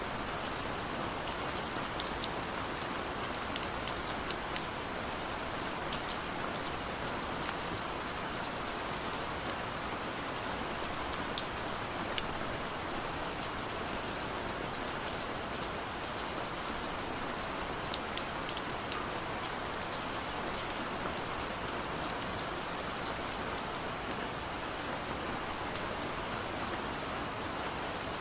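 Steady gentle rain: an even hiss of falling rain with many small drop ticks scattered through it.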